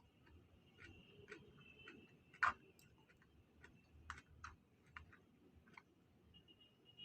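Quiet eating sounds: scattered small clicks and taps, irregular, with one sharper click about two and a half seconds in.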